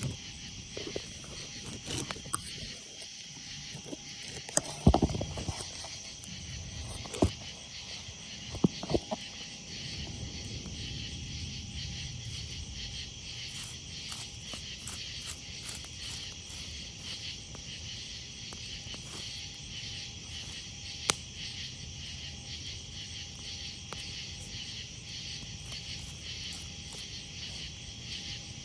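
Crickets and other insects chirping steadily as a constant high chorus, over a crackling wood campfire. Several sharp pops and knocks come in the first ten seconds, the loudest around the middle of that stretch, with a single crack later on.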